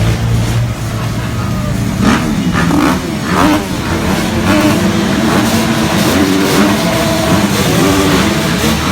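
Off-road enduro motorcycle engines running and being revved. There are quick rises and falls in pitch about two and three seconds in, then the engines hold at changing steady speeds.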